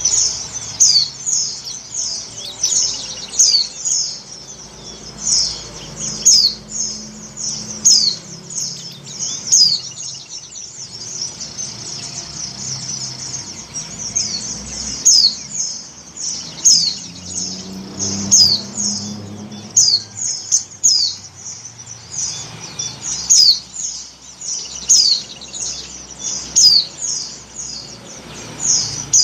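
Female white-eye (pleci) giving a continuous run of thin, high chirps, each a quick downward slur, several a second. This is the call of a female in breeding condition calling to males, as used to lure them.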